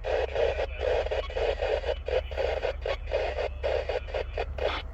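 Noisy radio audio: choppy bursts of static-like hiss, broken up every fraction of a second, over a steady low hum.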